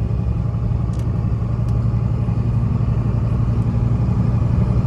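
A 1999 Dodge Ram 3500's Cummins inline-six diesel running steadily under way in third gear, heard from inside the cab, with the revs and loudness creeping up slightly. The seller points to an injector problem causing a slight fuel hesitation.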